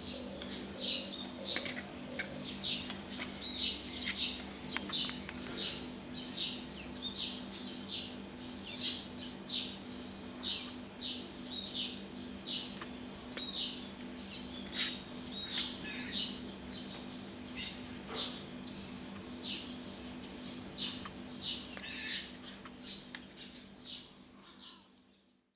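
Bird-like chirps, short and high-pitched, repeating about once or twice a second over a steady low hum. The sound fades out near the end.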